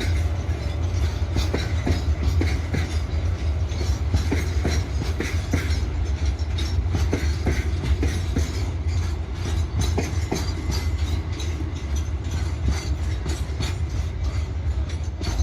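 Freight train rolling past, its wagons giving a steady low rumble with repeated clacks as the wheels cross rail joints.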